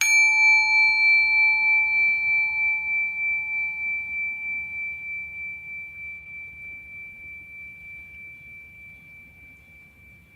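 A meditation bell or bowl struck once, ringing with a slow wavering throb and fading gradually.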